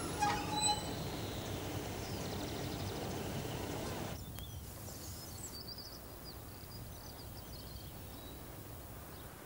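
Class 150 Sprinter diesel multiple unit running into a station platform: a low rumble with two brief high squeals in the first second. About four seconds in it gives way to quieter outdoor background with birds chirping.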